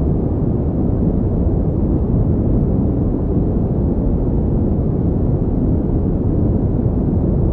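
Continuous pink noise, a steady, even rushing hiss weighted to the low end, with no change in level or pitch.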